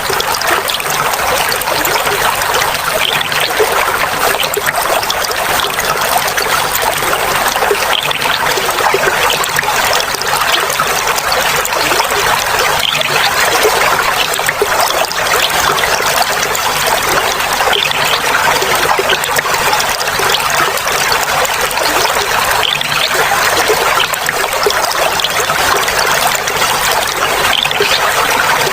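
Clear running water trickling and babbling steadily.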